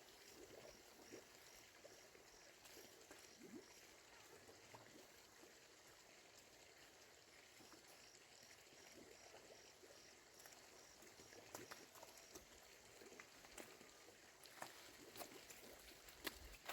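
Near silence: faint background hiss with a faint, high, rapidly repeated chirping in two runs and scattered soft clicks and taps.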